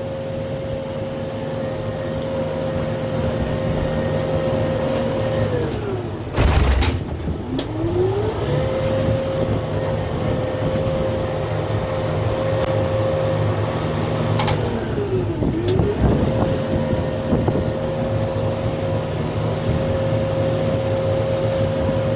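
Kubota M6-141 tractor's diesel engine running in low range with a steady whine. The whine twice sags in pitch and climbs back as the engine lugs under load. There is a loud thump about six seconds in and a sharper knock near the middle.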